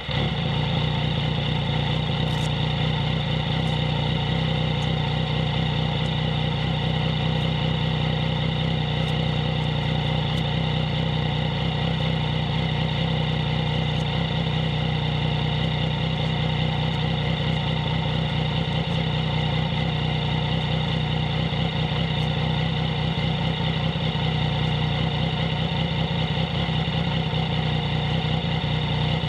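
Yamaha MT-09's three-cylinder engine idling steadily through a Two Brothers S1R full aftermarket exhaust system.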